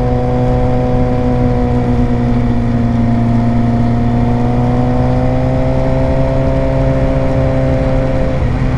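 Suzuki GSX-R600's inline-four engine running at a steady road speed. Its pitch rises slightly midway and eases off near the end.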